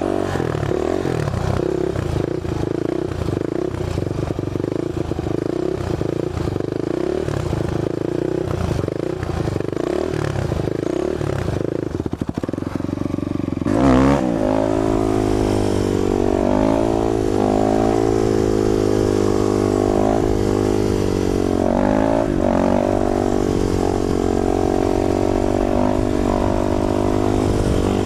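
Motorcycle engine running at low speed with an uneven pulse, then a sharp knock about halfway through as the bike pulls away, revving up and down as it rides.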